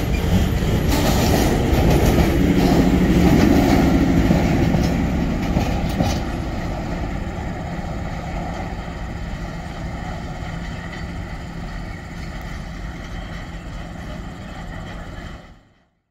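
Heavy freight train of loaded timber wagons rolling past, its wheels knocking over the rail, then the diesel locomotive at the rear of the train passes and its running engine fades as it draws away. The sound cuts off abruptly near the end.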